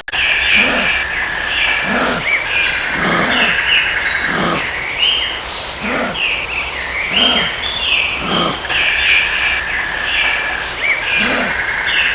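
A dense chorus of animal calls: many overlapping high chirping calls, with lower calls repeating about once a second.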